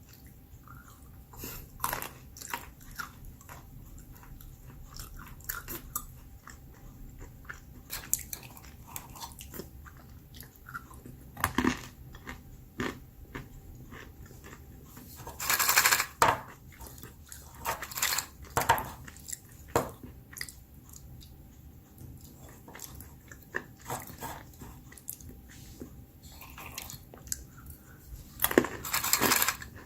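A person crunching and chewing almonds close to the microphone: irregular crisp crunches, with a few louder bursts about halfway through and near the end.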